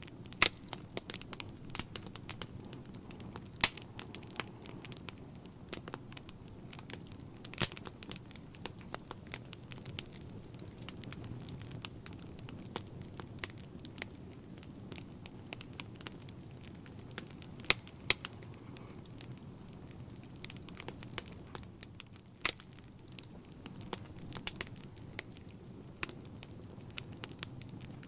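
Wood fire in a fireplace crackling, with sharp pops scattered irregularly over a steady low rumble of the burning logs.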